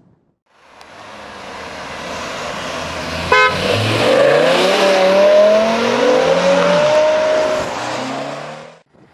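BMW M6's 5.0-litre V10 accelerating hard as the car pulls away, its revs climbing, with a sharp crack about three seconds in. The engine sound fades in after a brief silence and cuts off suddenly near the end.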